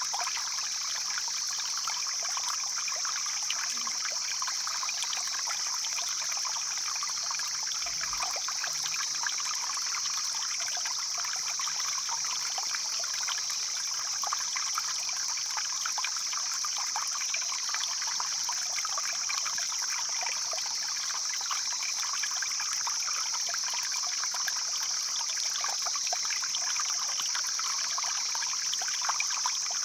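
Mountain stream flowing, water trickling and splashing over stones in a steady, unbroken rush. A steady high-pitched hiss sits over it.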